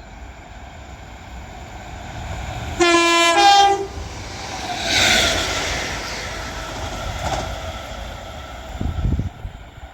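Northern Class 769 bi-mode train sounding a two-tone horn about three seconds in, a short lower note then a higher one, as a greeting to the trainspotter. It then passes through the station, its running noise swelling and fading away near the end.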